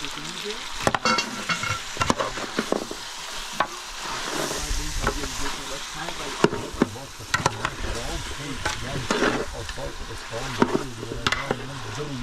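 Food frying and sizzling in a cooking pot while it is stirred, with frequent sharp knocks of the stirring utensil against the pot.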